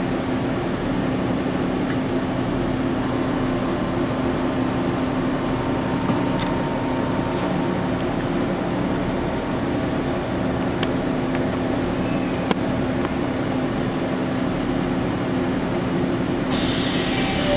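A stopped train standing at a platform: a steady hum with a few even low tones, heard from inside the car. A hiss of compressed air starts near the end.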